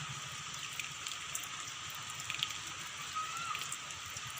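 Steady light rain hissing, with scattered drips and patters.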